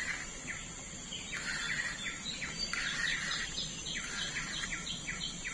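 Birds calling from the riverside forest: a continuous run of short chirps, several a second, each note sliding slightly down in pitch, with a thinner higher series alongside.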